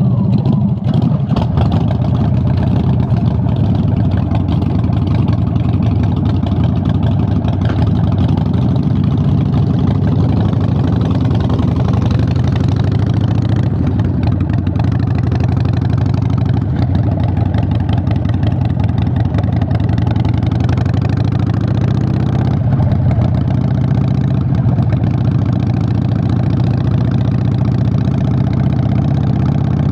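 Harley-Davidson Sportster 883's air-cooled V-twin idling steadily through Vance & Hines Short Shots exhausts, just after being started.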